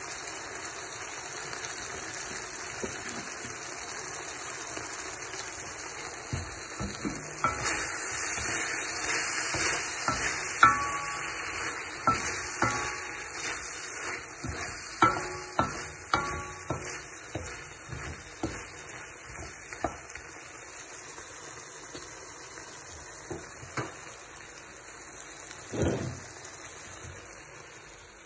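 Beef frying in a pan with a steady sizzle. Through the middle stretch, a run of sharp metallic knocks and clatters of a utensil against the pan, a few of them ringing briefly.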